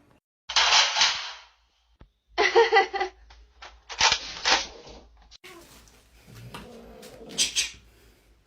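A cat hissing in four short, sharp bursts, the longest about a second in, a sign of an annoyed or defensive cat.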